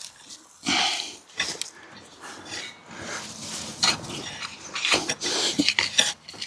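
Potatoes being dug up by hand and dropped into a wheelbarrow: rustling and scraping of soil and plant tops with irregular knocks and clatters, one louder rustle about a second in.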